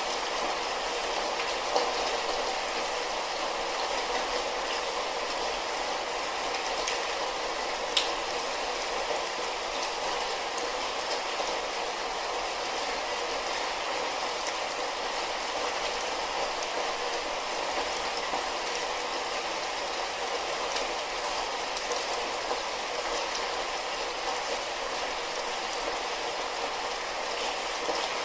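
Light rain falling steadily, an even hiss of patter with a few sharper single drop hits standing out, one about eight seconds in and another near twenty-two seconds.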